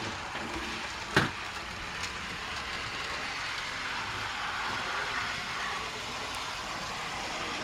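OO gauge Terrier 0-6-0 tank locomotive running along the model railway track: a steady whirr of the electric motor and wheels on the rails. A single sharp click about a second in.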